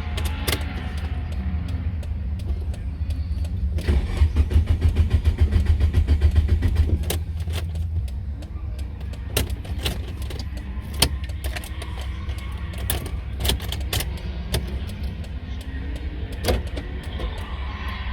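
Nissan S15 Silvia drift car's engine running with a deep low rumble, pulsing at about four beats a second for a few seconds partway through, with scattered clicks and knocks over it.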